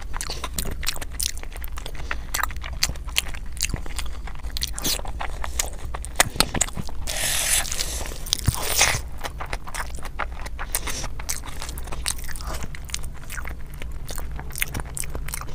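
Close-miked eating by hand: a person chewing and biting mouthfuls of chicken and biryani rice, full of small wet clicks and crunches. About halfway through there is a longer rustling scrape as a fistful of rice is gathered from the plate.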